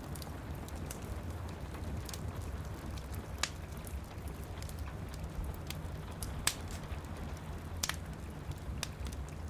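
Wood fire crackling, with sharp pops every second or so, over the steady hiss and low rumble of rain.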